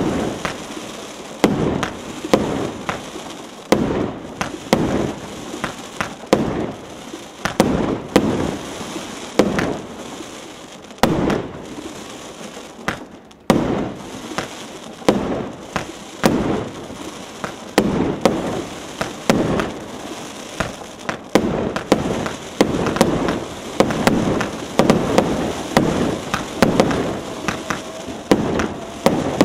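Fireworks going off in quick succession: sharp bangs about once or twice a second with crackling between them. There is a brief lull about twelve seconds in, then a sudden loud bang and denser firing.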